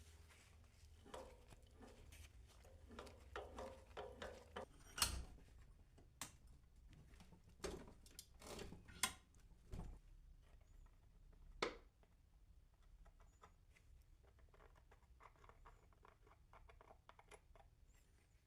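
Quiet, scattered light clicks and knocks of tools and a metal workpiece being handled, with a few sharper single knocks about five, nine and eleven and a half seconds in.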